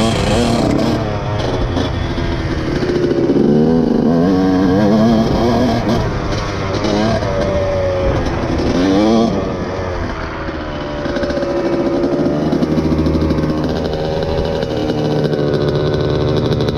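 Dirt bike engine running under riding, revving up and dropping back several times, then holding a steadier speed, over a low rumble of wind on the microphone.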